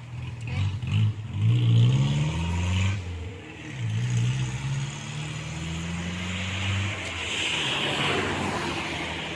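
An engine running, its pitch rising and falling as it revs, then a rushing hiss near the end.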